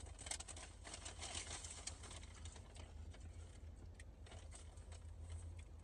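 Close-up eating sounds: fried chicken being chewed and crunched, heard as many small crackles and clicks that are thickest in the first two seconds. A low steady hum runs underneath.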